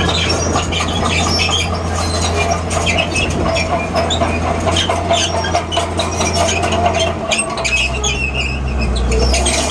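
Bulldozer running with a steady low diesel drone, its steel tracks squealing and clanking as it moves. The engine note drops lower about three-quarters of the way through.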